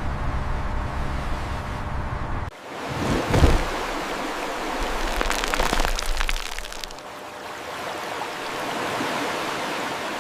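Rushing, splashing water: a steady noisy wash that changes abruptly a couple of seconds in, with a loud surge soon after and a stretch of fine crackling spatter in the middle.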